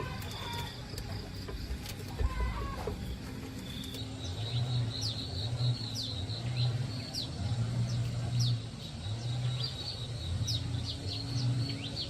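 Small birds chirping in quick, repeated calls from about four seconds in, over a low throb that pulses about once a second.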